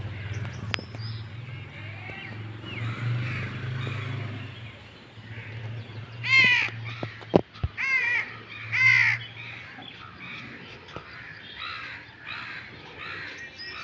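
A bird calls loudly three times, the calls a second or so apart, among faint chirping of other birds. A single sharp knock falls between the first two calls. A low steady hum underneath stops about two-thirds of the way through.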